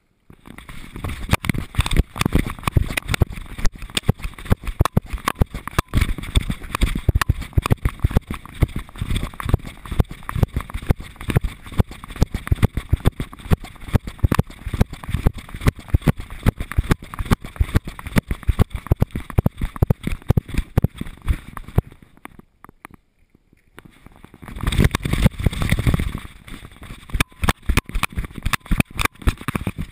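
Dense, irregular knocking and rubbing from a GoPro camera strapped to a dog's harness, jostled with the dog's movement. It falls away for a couple of seconds about three-quarters of the way through, then starts again.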